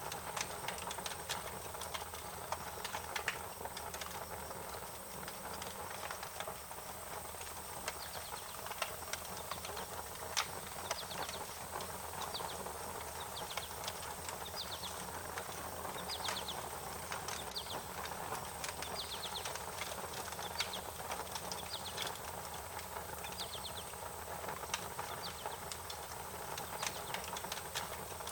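Wood fire crackling, with frequent sharp pops over a steady hiss. Short, quickly repeated high chirps sound now and then in the background.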